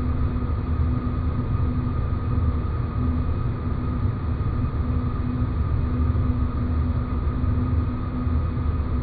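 Sci-fi space-planet ambience: a steady low rumble of noise with a few constant humming tones over it, the lowest hum fading in and out every second or so.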